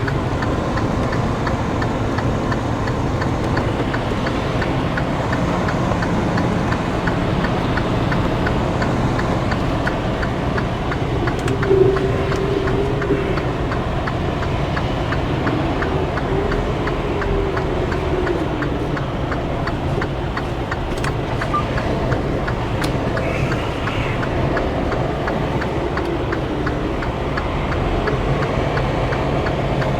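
Semi truck's diesel engine running steadily at low speed, heard from inside the cab, with a faint regular ticking clatter. A few faint wavering tones rise and fall over it around the middle and again later.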